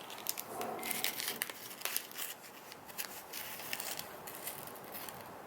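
Crinkling and irregular sharp clicks of a plastic candy packet being handled, thinning out near the end.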